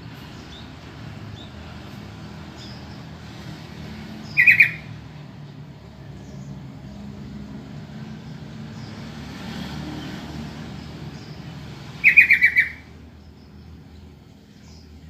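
Yellow-vented bulbul (trucukan) calling: two short bursts of quick, harsh notes, one about four seconds in and a slightly longer one about twelve seconds in, over a low steady background noise.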